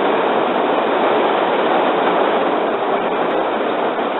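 Steady rain falling on the roof of a van, heard from inside as an even hiss with no let-up.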